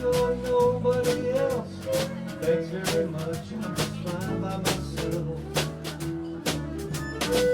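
Live band music from guitars, fiddle, bass and percussion playing a country-blues song. A held melodic note is followed by moving lines over a steady beat of percussive strokes.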